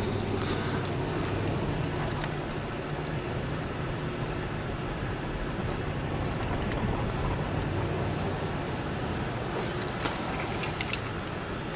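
Car engine running steadily with road noise while driving, and a few light knocks or rattles near the end.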